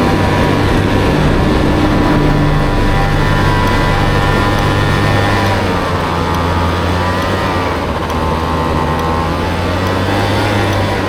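Honda Motocompo's swapped-in Honda Dio two-stroke scooter engine running steadily under way, its pitch dipping and rising again in the second half as the speed changes.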